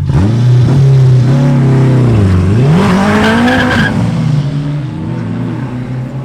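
Street-car engine at full throttle in a roll race: a steady drone that dips about two and a half seconds in, then climbs sharply in pitch as the car accelerates hard, before settling to a lower, steady drone.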